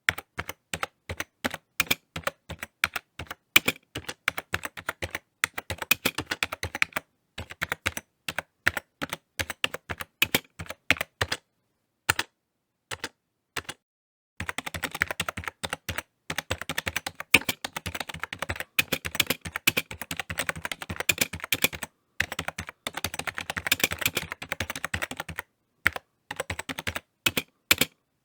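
Typing on a computer keyboard: rapid, irregular key clicks in runs. About halfway through the typing stops for roughly three seconds, then comes back in faster, denser bursts.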